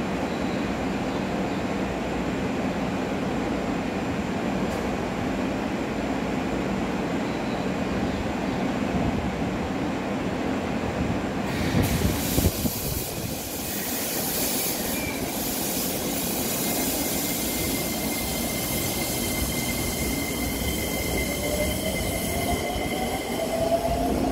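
Keisei 3000 series electric commuter train standing at the platform with a steady hum, then pulling out about halfway through with rail noise and a thin wheel squeal. Near the end its motor whine rises in pitch as it accelerates away.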